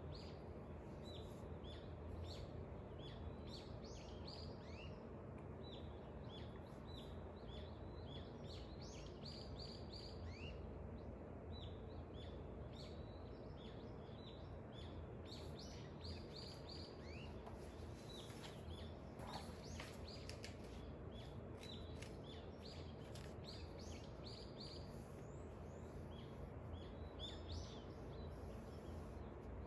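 Small birds chirping: many short, repeated chirps, thickest about two thirds of the way through, over a steady low background hum of ambient noise.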